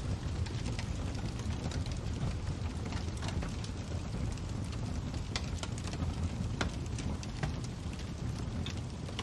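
Fire crackling: irregular sharp pops and snaps over a steady low rumble of burning.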